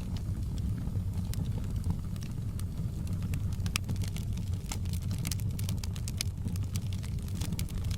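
Wood fire in a fireplace crackling, with sharp irregular pops and snaps, thickest a little past the middle, over a steady low rumble.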